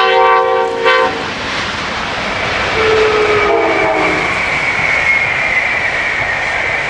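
An Amtrak AEM-7 electric locomotive and its train passing: a horn chord of several notes ends about a second in. Then comes a steady rumble of wheels on the rails with a high whine that falls slightly in pitch, and a fainter, shorter horn sounding three to four seconds in.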